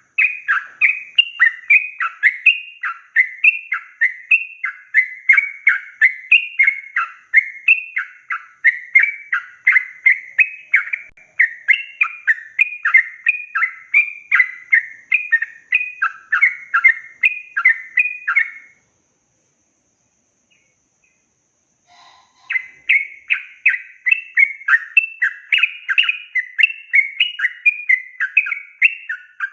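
Yellow-vented bulbul (trucukan) singing a long, rapid run of bubbly chirping phrases, several notes a second. The song breaks off about two-thirds through for a few seconds of silence, then starts again.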